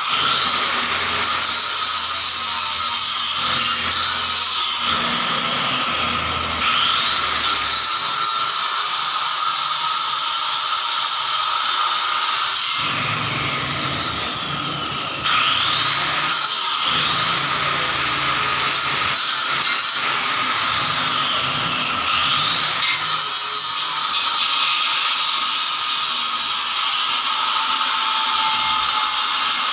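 Power tool running continuously, its pitch dipping and recovering several times as it is pressed into the work.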